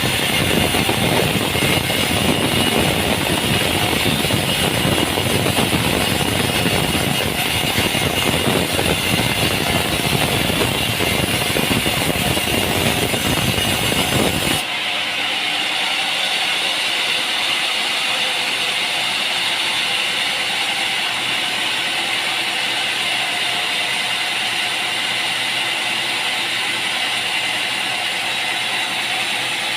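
Steady machine or engine running. About halfway it cuts abruptly to a different, thinner steady machine sound with much less low rumble.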